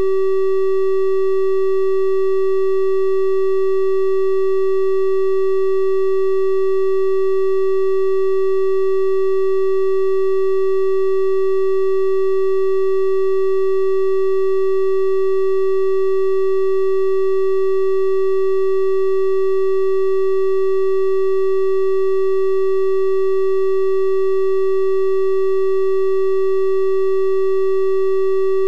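Synthesized 384 Hz triangle-wave tone, held steady and unchanging, with faint higher overtones above the main pitch.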